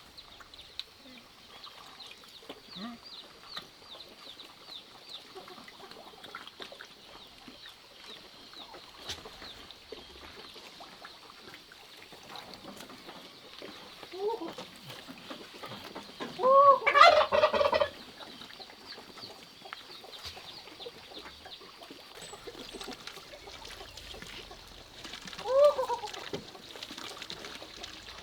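Domestic poultry calling: a few separate calls, the loudest a rattling call of about a second roughly two-thirds of the way through, and a shorter one near the end, over faint high chirping.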